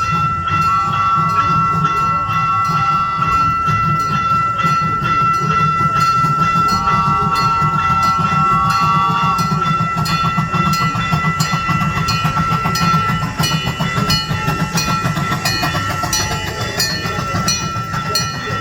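Gas-powered miniature replica train running with a steady low rumble, sounding two whistle blasts of a couple of seconds each. From about halfway there is a rapid run of regular clicking.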